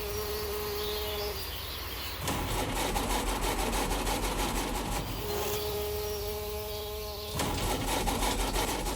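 Continuous buzzing that switches back and forth between a steady hum and a rougher, fast-pulsing rasp, about two seconds each.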